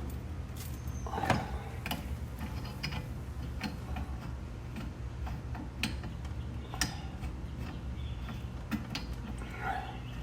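Scattered clicks and light metallic taps from handling and fitting the brass parts of a Victor acetylene regulator by hand, with a slightly louder click about a second in, over a steady low hum.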